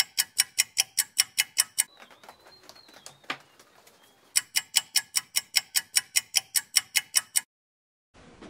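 Rapid, evenly spaced clock-like ticking, about four ticks a second, added as a sound effect. It pauses for a couple of seconds near the middle, where a faint high whistle and a single click are heard, then resumes and cuts off abruptly near the end.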